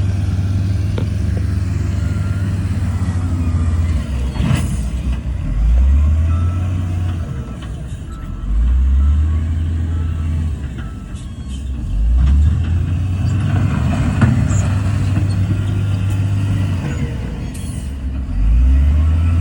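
Heavy diesel engines of earthmoving machines running, with one engine revving up four times, every three to four seconds. Two sharp clanks stand out, one about four seconds in and one near the end.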